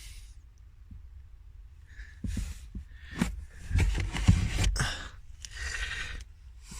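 Rustling and light knocking as items in a car boot are handled, in irregular bursts that start about two seconds in, with a sharp click midway.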